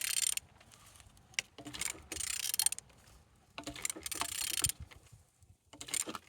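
Used engine being turned over by hand, in four strokes of mechanical clicking and scraping about a second long each; it turns freely, not seized.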